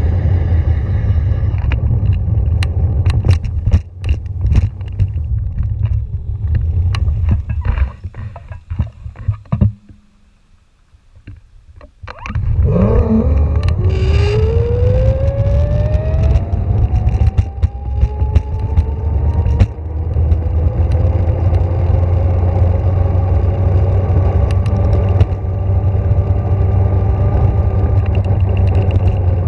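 Electric vehicle on the move, with heavy low rumble and knocks. It slows to a near-quiet stop. After that an electric motor whine climbs steadily in pitch as it pulls away and speeds up, then levels off.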